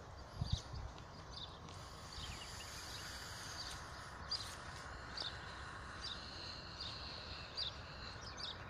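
Small birds chirping in short, repeated high calls over a steady outdoor hiss, with one low thump about half a second in.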